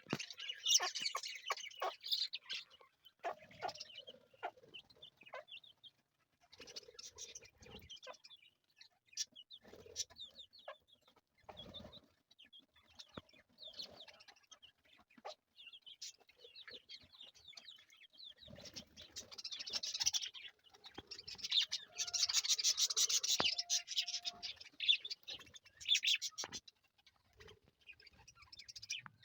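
Budgerigars chirping and chattering in quick, busy bursts of short high calls, densest and loudest a little past the middle, with scattered sharp clicks and a few dull low bumps in between.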